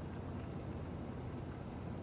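Steady low rumble of harbour ambience, even and unbroken.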